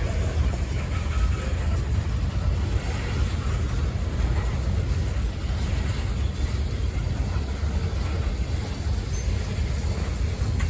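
Freight train cars rolling past on the rails with a steady low rumble.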